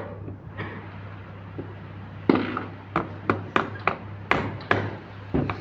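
Sharp taps and knocks, about three a second from about two seconds in, as the pump head is fitted and fastened onto a half-HP Tullu monoblock pump motor, over a steady low hum.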